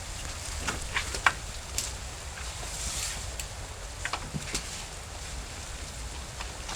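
Wind rumbling on the microphone over a steady hiss, with scattered sharp clicks and knocks.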